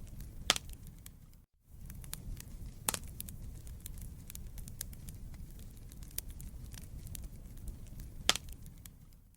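Wood fire in a fireplace crackling, with many small snaps over a low steady rumble of the flames and three louder pops. The sound cuts out briefly about one and a half seconds in.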